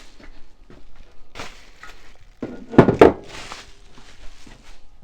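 Two heavy knocks in quick succession a little under three seconds in, as a kit part is set down or bumped on a workbench, with lighter rustling and clatter of parts being handled around them.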